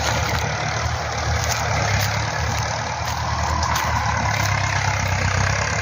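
Farm tractor engine running steadily under load while it ploughs, turning over soil, with a steady hiss over the low engine hum.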